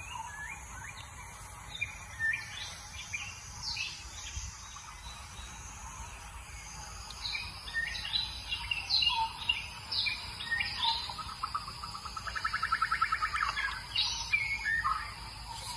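Wild birds chirping and calling in short high notes, with a fast rattling trill lasting about two seconds near the end.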